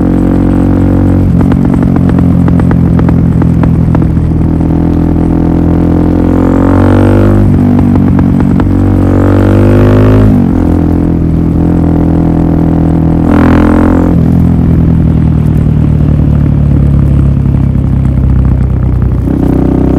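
Suzuki DR-Z400SM's single-cylinder four-stroke engine running through a full Yoshimura exhaust system, loud and steady, revving up three times in the middle, the second rev dropping away sharply.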